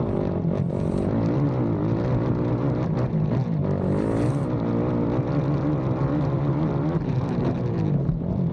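A racing quad's engine running hard, its revs rising and falling continually as the rider works the throttle, heard from a camera mounted on the ATV.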